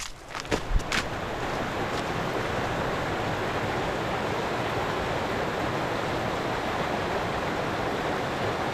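Steady rush of flowing creek water, even and unbroken, after a few crunching footsteps in snow in the first second.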